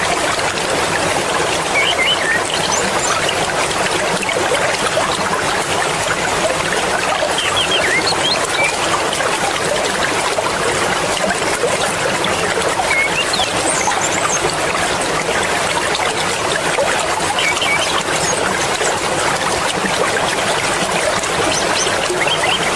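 Fast-flowing mountain river water rushing steadily, with a few brief high chirps scattered over it.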